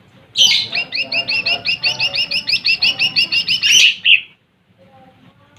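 Cucak ijo mini, a small leafbird, singing a fast run of about twenty evenly repeated chirping notes, some six a second, for about three and a half seconds before stopping abruptly.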